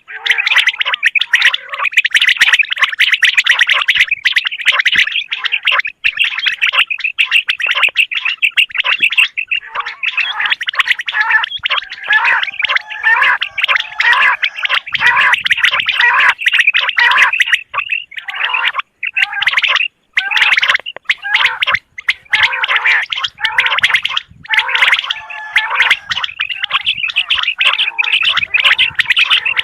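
Common quail (batair) calling: a dense, rapid trilling that runs almost without pause, with a few short breaks about two thirds of the way in.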